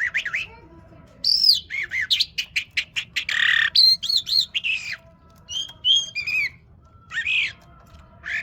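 A lark singing a varied, broken song: quick chirps and slurred whistled notes gliding up and down, mixed with harsh rasping notes, in phrases separated by short pauses.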